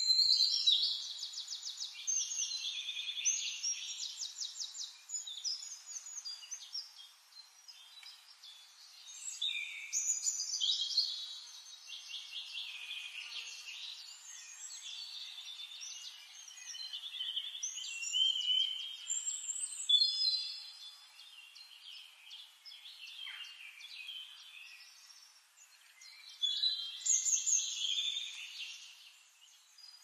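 Forest birds singing: fast, high trilling song phrases that come in bursts every eight to ten seconds, with quieter calls in between.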